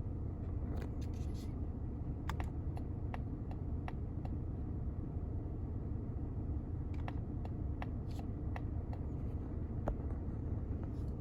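Mazda CX-30 20S's 2.0-litre petrol engine idling steadily, with scattered light ticks and clicks over it in two short clusters, one early and one from about seven seconds in.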